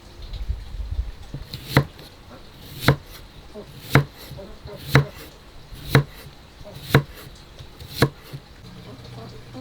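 Chopping with a heavy knife or cleaver on a cutting board: seven sharp, even strokes about a second apart, starting about two seconds in. A low rumble comes before the first stroke.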